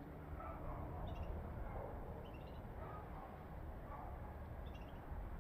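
Birds calling, a series of mid-pitched calls about a second apart with a few short high chirps among them, over a low, steady rumble.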